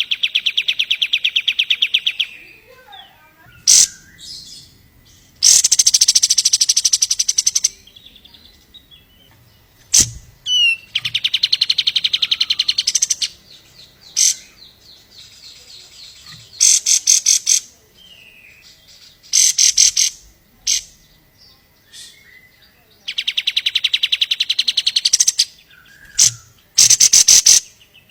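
Kapas tembak songbird singing: long trills of rapid, evenly repeated high notes lasting two to three seconds each, broken up by short sharp chirps.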